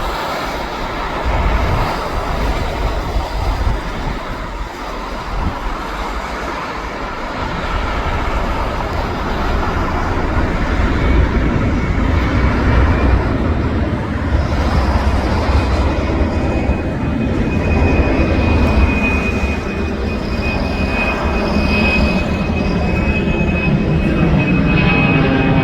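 Boeing 767-300 freighter's jet engines on approach, a steady noise that grows slightly louder, with a steady high whine coming in about two-thirds of the way through. Gusty wind rumbles on the microphone underneath.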